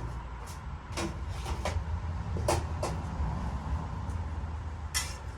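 Metal cooking utensils clicking and knocking on a flat-top griddle, a handful of short sharp clacks with a louder one near the end, over a steady low rumble from the griddle's burners.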